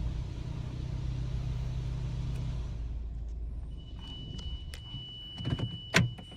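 Car engine running with a low rumble that dies away about halfway through. Then a steady high-pitched tone comes on, with a few clicks and a sharp knock near the end.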